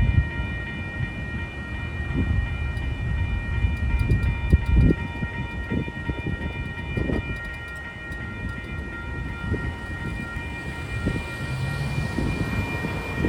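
Passenger train rumbling through a grade crossing, with irregular low thumps from the cars. Over it the crossing's warning bell rings steadily, stopping just after the train clears.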